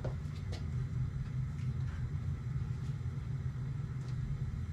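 Steady low hum, with a few faint clicks and taps.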